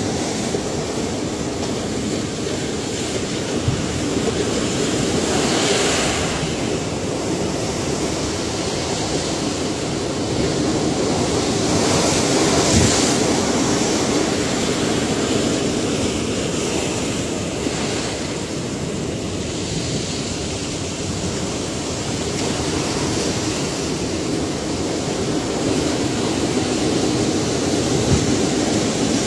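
Ocean surf: a steady wash of waves, swelling louder every several seconds as waves break.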